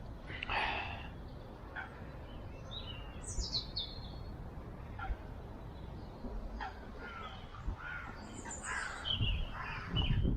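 Wild birds calling, a mix of species: a short harsh call under a second in, high falling chirps a few seconds later, and a run of twittering calls in the second half, over a low steady rumble.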